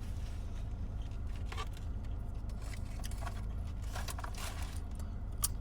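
Steady low hum inside a parked car, with a few faint rustles and clicks of food wrappers being handled.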